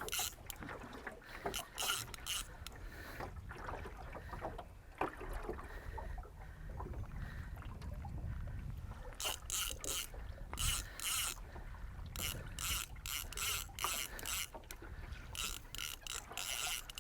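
Fly reel drag clicking as a hooked tarpon runs and pulls line off the reel, in irregular spurts, with faster runs of clicks in the second half, over a steady low rumble.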